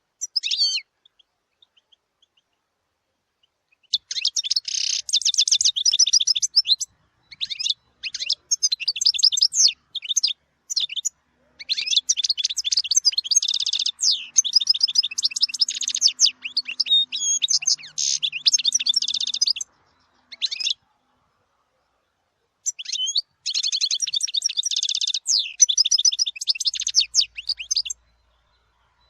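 European goldfinch singing: bouts of fast, liquid twittering and trilled notes, the longest running about eight seconds, separated by short silent pauses.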